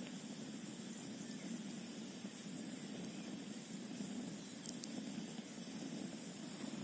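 Campfire ambience: a steady rush of a flowing mountain stream and wind, with two sharp crackles from the burning wood about two-thirds of the way through.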